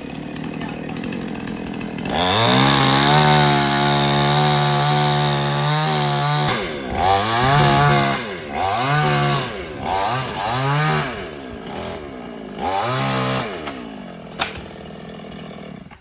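Chainsaw running at a lower speed, then opened to full throttle about two seconds in and held at a steady high pitch. Its revs then dip and rise again about six times, with a sharp click near the end.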